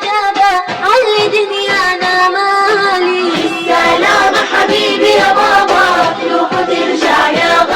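Arabic children's song: high voices singing a melody over instrumental backing.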